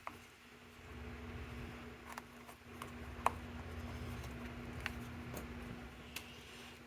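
Scattered light clicks and taps of small metal wire connectors being handled and pushed together, the sharpest about three seconds in, over a steady low hum.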